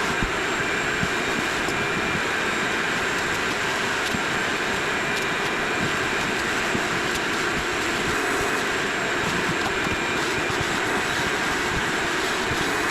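Vacuum running steadily with a high whine, sucking up water left in the bathroom floor drain area.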